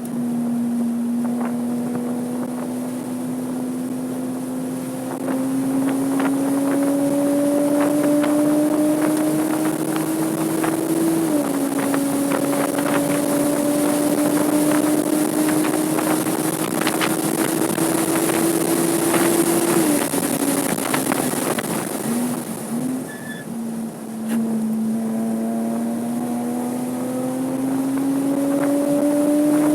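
Porsche 987.2 Cayman S's 3.4-litre flat-six accelerating at speed on track. Its pitch climbs steadily, drops sharply once at an upshift about eleven seconds in, climbs again, falls in several steps around twenty seconds as it slows and downshifts, and climbs again near the end. A steady hiss of wind and scattered ticks run underneath.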